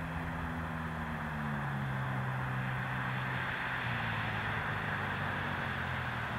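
The 2006 Mazda 3's 2.3-litre four-cylinder engine, muffler deleted, running as the car drives along, over steady road noise. Its note falls gradually through the first few seconds as the revs drop, then holds lower.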